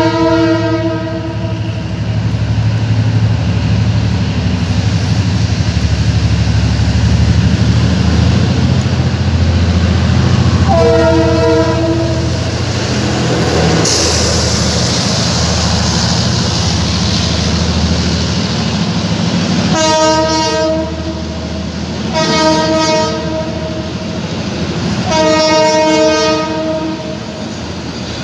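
Passenger train hauled by a diesel locomotive passing close by, with a deep rumble throughout and a loud hiss as the locomotive goes by about 14 seconds in. Its multi-tone horn sounds at the start, again around 11 seconds, and three more times in the last eight seconds.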